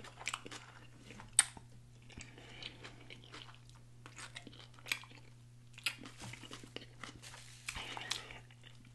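Close-miked wet chewing and lip smacking of a mouthful of onion-wrapped cheeseburger, with a few sharp smacks scattered through, and fingers sucked clean partway through. A faint steady low hum underneath.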